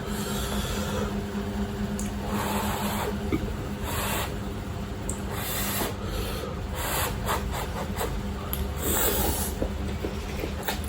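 Close-up eating sounds of fried instant cup noodles: irregular chewing with rubbing and scraping noises, over a steady low hum.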